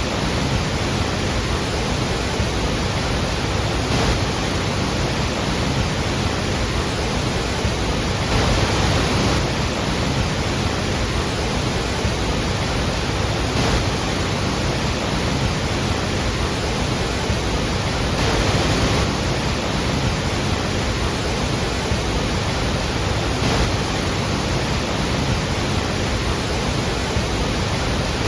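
Iguazú Falls: a large waterfall roaring steadily, a dense unbroken rush of falling water with slight swells.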